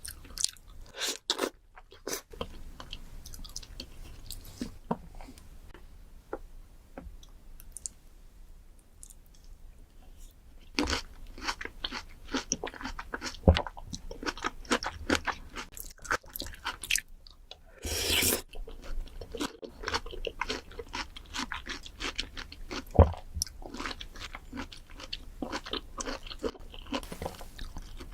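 Close-miked mouth sounds of someone eating fruit: crisp bites and crunching chewing, a steady run of sharp wet clicks and crackles. There is a short, louder crunch about eighteen seconds in.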